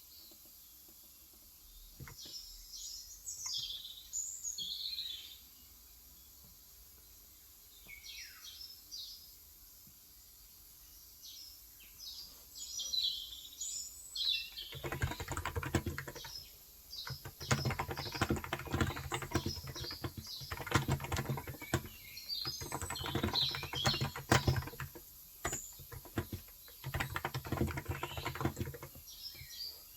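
Birds chirping, then from about halfway through, fast continuous typing on a Cox Endeavour tenkeyless keyboard with 35 g electro-capacitive (contactless) switches, the birds still chirping over the keystrokes.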